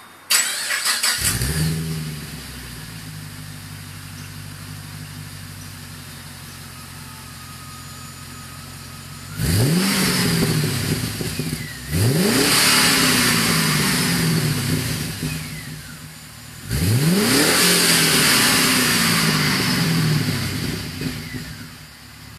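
Holden VE Statesman V8 exhaust through aftermarket Ultrex Performance mufflers: the engine is started, settles into a steady idle, then is revved three times, each rev rising quickly and sinking slowly back toward idle.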